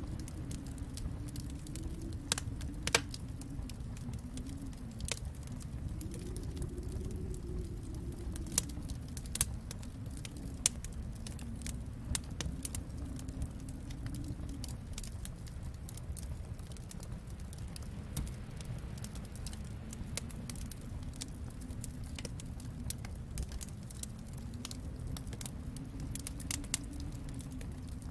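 Wood fire crackling with frequent small snaps and a few louder pops, over a steady low rumble.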